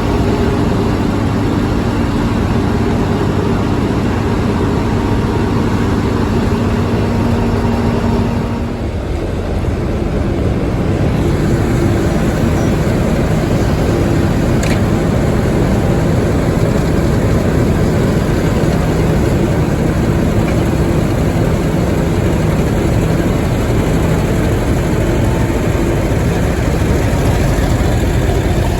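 Diesel locomotive engine running with a steady, loud drone and held tones. About nine seconds in it dips briefly and comes back with a different pitch.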